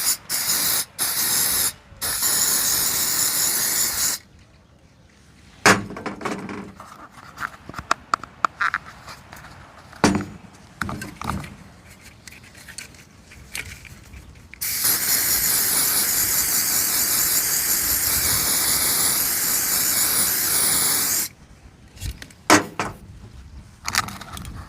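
A spray nozzle hissing on carburetor parts: a few short bursts, then one long steady spray of about six seconds, with clicks and knocks of small parts being handled in between.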